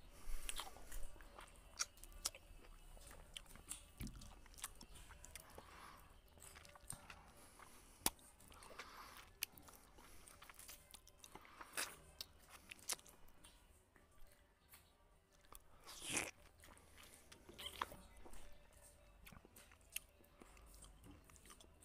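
Chewing and mouth noises of a man eating rice and curry by hand, with many scattered small wet clicks and smacks.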